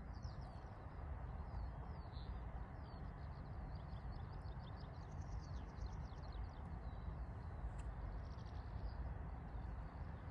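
Small songbirds chirping and trilling, one call after another, over a steady low rumble.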